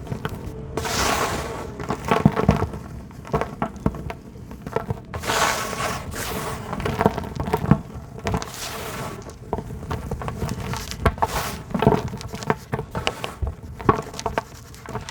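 Hard, dry dirt being crumbled and broken apart by hand, with many crackles and small snaps, and several stretches of loose crumbs and sand pouring down in a soft hiss.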